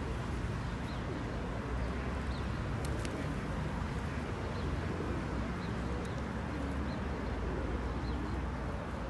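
Pigeons cooing softly now and then over a steady low background rumble.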